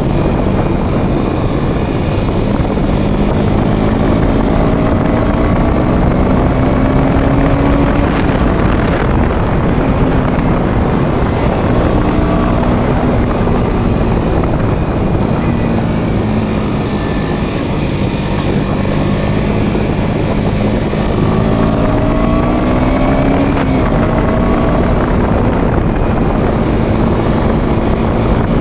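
Motorcycle engine running under way, its pitch climbing and dropping repeatedly as it revs through the gears, over steady wind rush.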